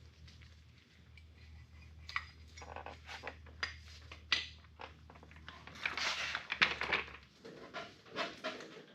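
Irregular metallic clinks, knocks and rattling of tools and brake parts being handled, busiest about six to seven seconds in. A low steady hum underneath stops about seven seconds in.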